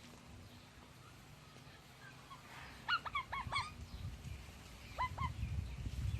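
A pet parrot calling: a quick run of five or six short, squeaky notes about three seconds in, then two more about five seconds in.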